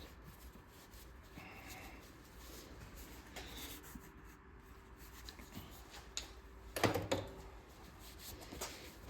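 Faint rubbing and scraping of metal engine parts being handled while the piston is worked out of a Clinton 410 small engine. A sharper knock comes about seven seconds in.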